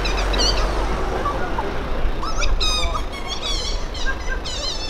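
Car engine running low and steady as the car creeps up and stops. From about two seconds in, bursts of high-pitched, wavering squeaks ride over it.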